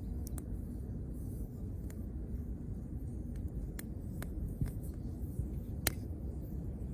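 Wood campfire crackling: scattered sharp pops over a low steady rumble, the loudest pop near the end.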